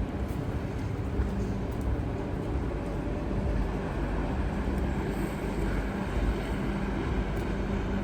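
Steady low rumble of city street traffic, with a faint steady engine hum.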